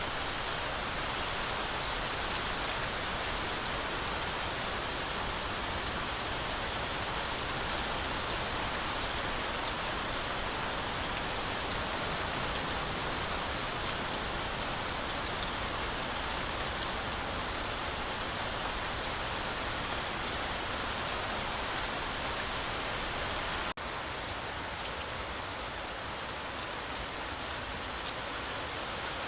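Heavy rain falling steadily through a forest canopy, a dense even hiss of drops. Near the end it drops out for an instant, then goes on slightly softer.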